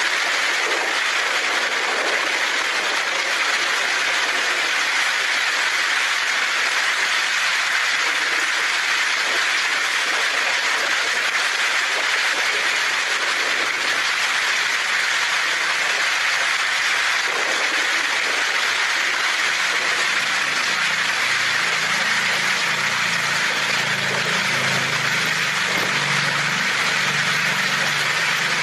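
Heavy rain falling steadily on a tin roof. About twenty seconds in, a low rumble of thunder rolls in under the rain.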